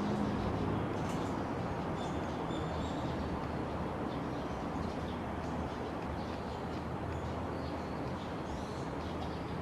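Steady low mechanical rumble with faint bird chirps scattered above it.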